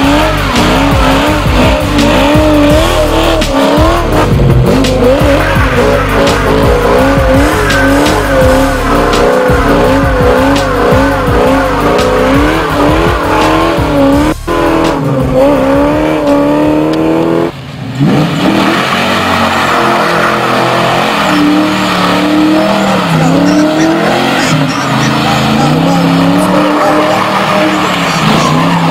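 Car engine revving hard and wavering up and down while its tyres squeal and skid, as in donuts or a burnout, with music under it. The sound changes abruptly about two thirds of the way in.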